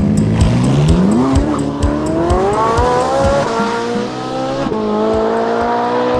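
Car engine sound effect revving up, its pitch rising over about three seconds and then holding, laid over background music with a steady beat.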